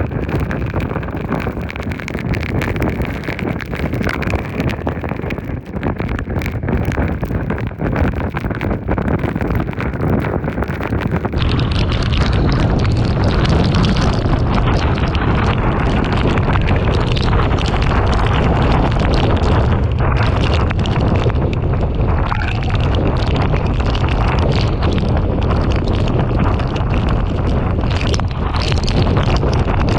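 Typhoon eyewall wind blowing hard and buffeting the microphone, with rain. About a third of the way in it cuts to a heavier, deeper rush of wind.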